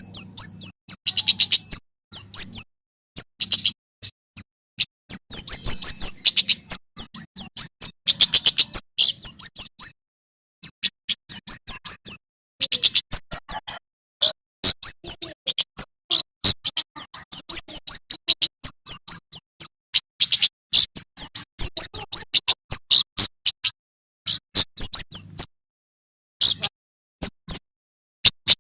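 Male prenjak keres (kemade), a small songbird, singing: rapid runs of sharp, high chirps in bursts of a second or two, separated by short pauses.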